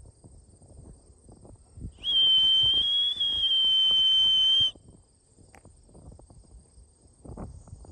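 A single steady high-pitched beep, about two and a half seconds long, starting about two seconds in and cutting off suddenly. Behind it runs a faint constant high insect drone and light rustling.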